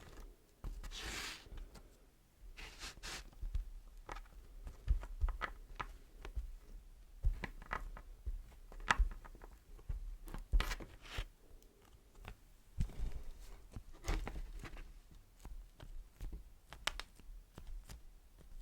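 Beeswax wrap being crinkled and peeled, making irregular sticky crackles and rustles with scattered sharp clicks.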